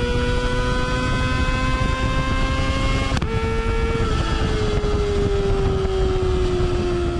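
Kawasaki ZX25R's high-revving 250 cc inline-four through a Yoshimura R77-style exhaust, heard from the tail of the moving bike. The revs climb slowly, a quick upshift cuts in about three seconds in, then the engine note slowly drops, with another shift right at the end. Wind rumble sits underneath.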